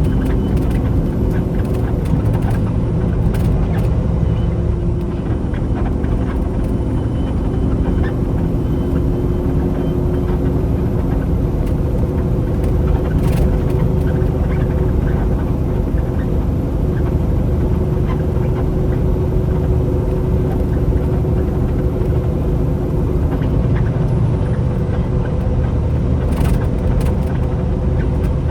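Semi truck's engine and road noise while driving, a steady low drone.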